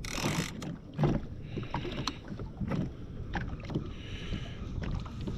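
Water slapping against the hull of a drifting jet ski, with wind on the microphone, a splash-like rush at the start and a few sharp knocks scattered through.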